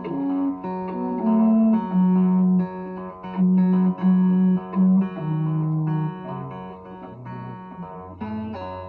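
Instrumental break of a slow blues: guitar playing under a melody of long held low notes that steps about and sinks lower near the end.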